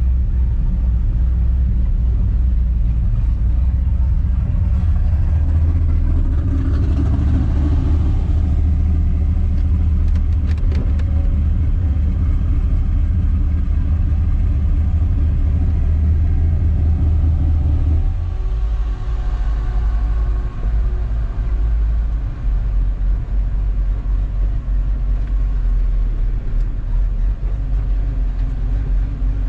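A car running, a steady low rumble of engine and road noise that eases off and changes about eighteen seconds in.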